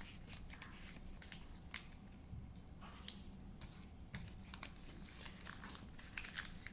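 A sheet of paper rustling and crackling faintly as it is folded and creased by hand, in scattered short crinkles.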